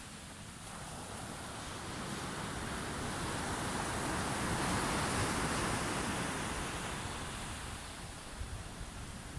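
Sea waves breaking and washing on the shore: one wave surges up over a few seconds, peaks midway, then draws back, over a steady low rumble of surf.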